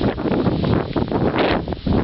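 Gusty wind buffeting the microphone, a loud rumbling rush that surges and dips in strength.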